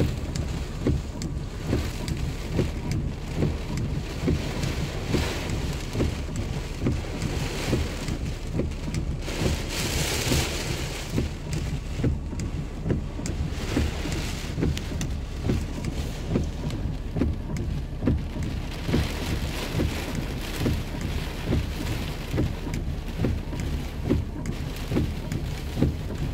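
Heavy rain pouring down in strong wind, with many close, sharp drop impacts over a steady hiss and a low rumble underneath. The rush swells louder about ten seconds in.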